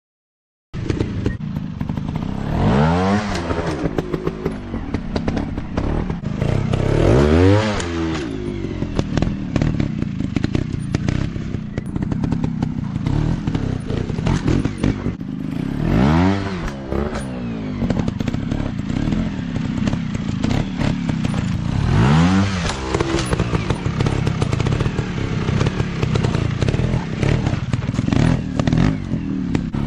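Off-road dirt bike engine revving hard in repeated bursts. Its pitch climbs and drops back several times, with knocks and clatter throughout. The sound starts after a short silence.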